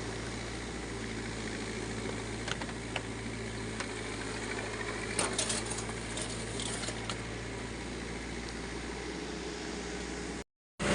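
Heavy diesel machinery engine running at a steady idle, with a few light clicks and metallic rattles about five to seven seconds in. It cuts off abruptly just before the end.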